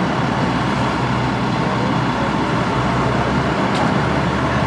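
Steady road traffic and vehicle noise: an even rumble of engines and tyres with no single event standing out.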